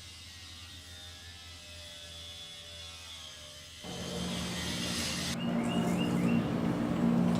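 A faint steady hum, then about four seconds in a louder machine drone comes in suddenly and keeps growing louder.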